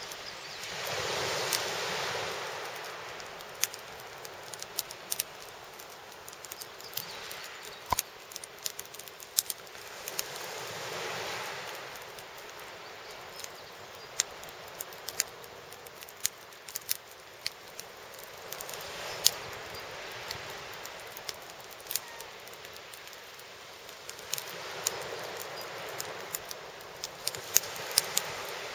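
Campfire crackling, with irregular sharp pops and snaps throughout. A rushing noise swells up and fades away four times.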